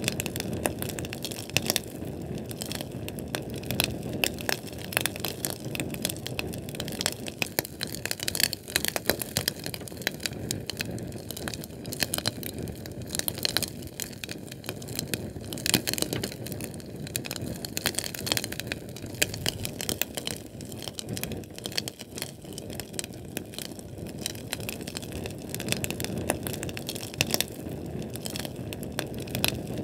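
Fire crackling: a steady low rumble of flame with frequent, irregular sharp pops and snaps.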